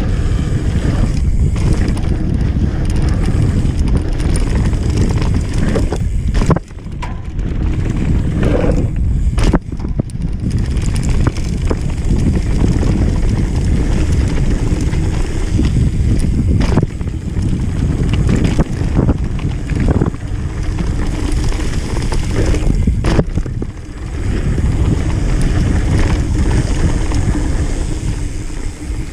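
Wind rushing over the microphone of a camera riding on a mountain bike along a trail, with tyre rumble and frequent knocks and rattles from the bike over rough ground. The noise drops briefly twice, about a third of the way in and again near the end.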